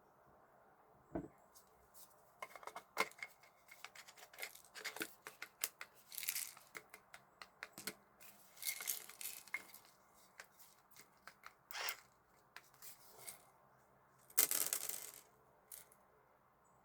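Black peppercorns being poured into the chamber of an electric pepper grinder: scattered clicks and rattles of hard seeds striking the plastic. There are a few short rustling, pouring stretches, the longest near the end.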